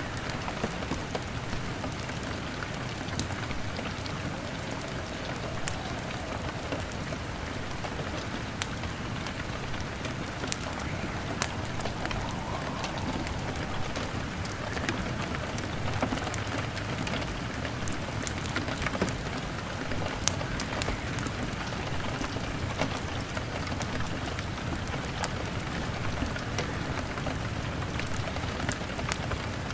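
Steady rain on a window, mixed with a crackling wood fire, making an even hiss with scattered sharp pops and ticks throughout.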